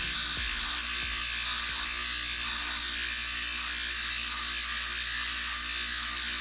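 Lapidary machine running steadily: an even high hiss over a low hum, with a couple of light knocks in the first half-second.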